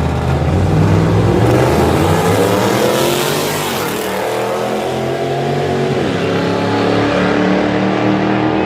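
Street-racing cars accelerating hard, engines revving: the engine pitch climbs steeply over the first few seconds, drops abruptly about six seconds in, then rises slowly again.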